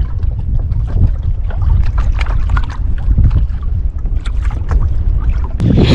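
Wind buffeting the microphone with a heavy low rumble, over small irregular splashes and drips of lake water against a kayak. A louder splash or gust comes near the end.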